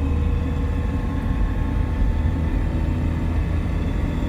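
Car engine and road noise heard from inside the cabin while driving: a steady low drone with a faint hum over it.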